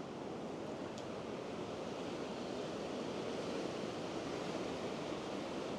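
Sea surf washing onto the beach: a steady rush of waves that grows slightly louder.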